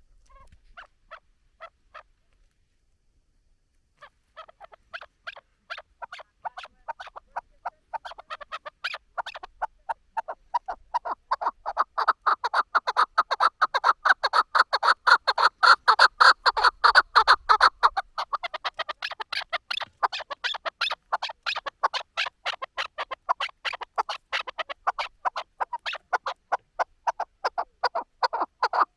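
Male chukar partridge calling: a few short notes, a brief pause, then from about four seconds in a rapid run of repeated chuck notes that grows louder and keeps going.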